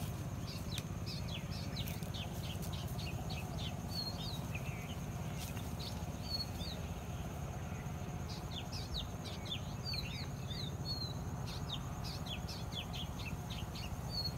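Small birds chirping in repeated clusters of short, high, falling notes, over a steady low rumble of outdoor background noise.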